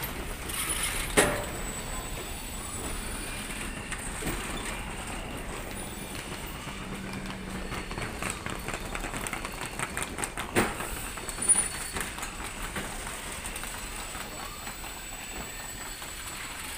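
Passenger train coaches rolling slowly alongside the platform as the train pulls in, with a steady rumble and a few sharp knocks and clanks.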